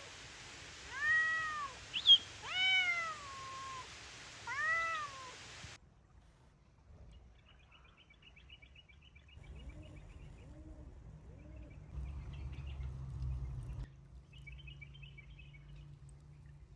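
A cat meowing: four loud calls in the first six seconds, each rising and falling in pitch, the loudest about two seconds in. Fainter calls follow later.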